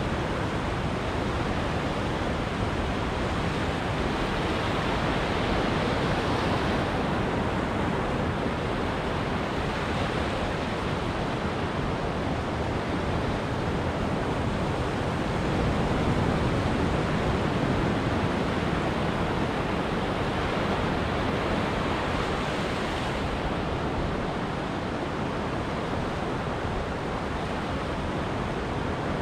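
Ocean surf washing on a beach: a steady rushing noise of breaking waves that swells louder now and then as bigger sets come in.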